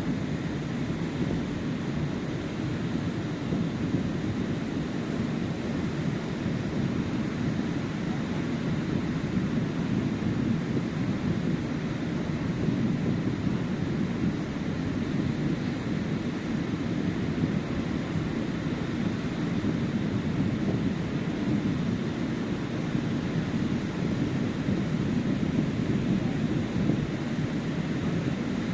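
Ocean surf washing onto a beach: a continuous low, rumbling wash that swells and eases slowly, with wind rumbling on the microphone.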